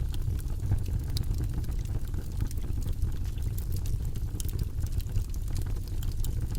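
Campfire burning, with frequent small, sharp crackles and pops over a steady low rumble.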